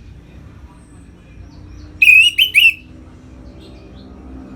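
Orange-headed thrush singing one short phrase of about four quick, clear whistled notes, about two seconds in. It is a loud, open 'ngeplong' song, with a faint low hum underneath.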